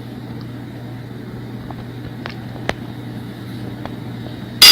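A steady low hum with a few faint light clicks as a tablespoon of onion powder is measured out of a spice bottle, then a short, loud scraping rattle near the end.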